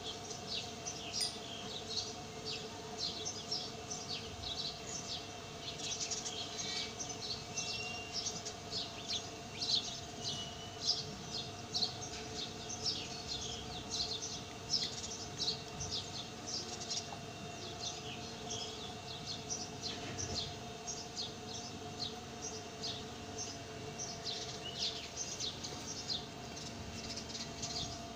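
Small birds chirping busily, many short high chirps overlapping throughout, over a faint steady hum.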